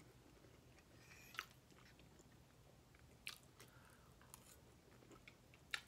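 Near silence broken by a few faint, brief mouth clicks of someone chewing food.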